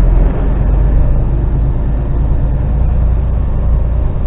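Articulated lorry's diesel engine running steadily, heard from inside the cab as a deep, even drone.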